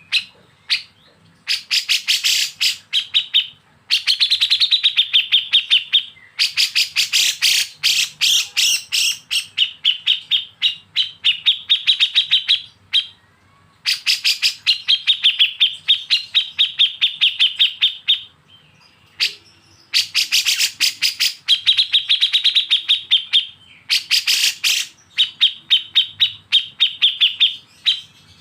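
Bulbul song for bird training: rapid strings of sharp, evenly repeated chirps, about ten a second, in bouts of a few seconds broken by short pauses, six bouts in all.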